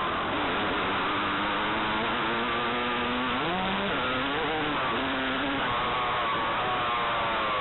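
Motocross bike engine running hard on the track, its pitch rising and falling with the throttle; the pitch drops sharply about three and a half seconds in, then climbs again.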